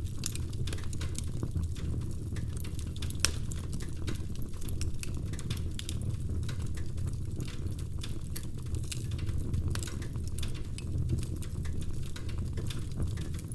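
Wood fire crackling in a fireplace: many irregular sharp snaps and pops over a steady low rumble from the flames.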